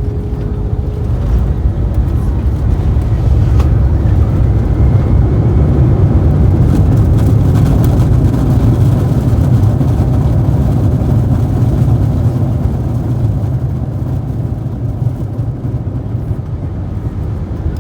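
Airbus A321-231 with IAE V2500 engines heard from inside the cabin on the landing roll: a loud, low rumble of the engines and the wheels on the runway. It swells about two seconds in, stays strong through the middle and eases off toward the end as the jet slows.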